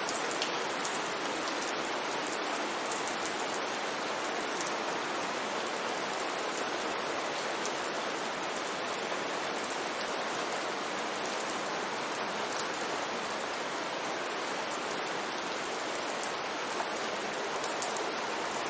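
Steady rain falling on a street, an even hiss with scattered drop ticks.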